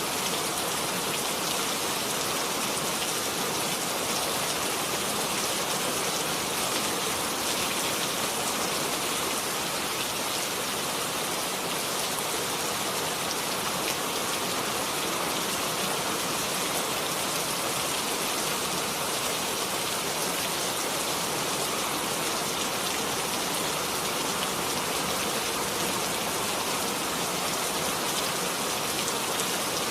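Steady rain falling and pattering on a surface, an even hiss without thunder.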